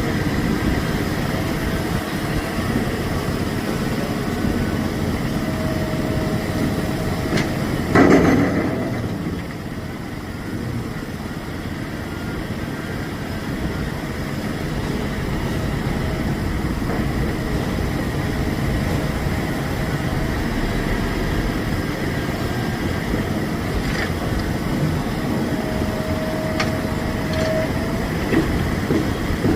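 Heavy diesel dump truck engines running steadily. There is one short, loud surge about a quarter of the way in, and a faint held tone twice.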